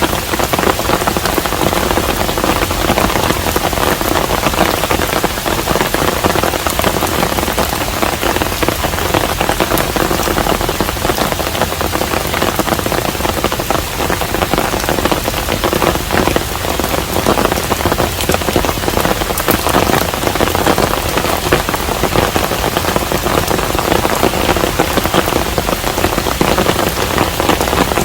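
Steady rain falling on a hanok, a traditional Korean house: an even hiss dotted with countless small drop ticks, unchanging in strength.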